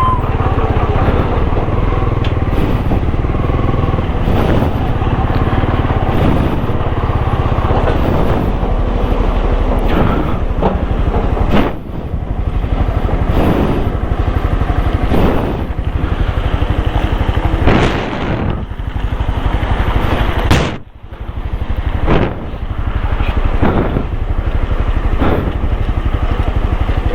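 Honda motorcycle engine running as it is ridden, with repeated short surges in the sound and a brief drop about 21 seconds in.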